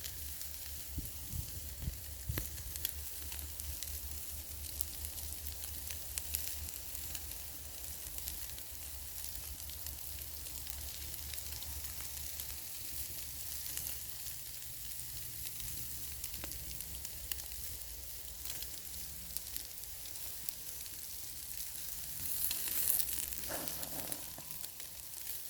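Chops and vegetables sizzling on a grill over campfire coals: a steady hiss with scattered small pops and crackles. It gets briefly louder a few seconds before the end.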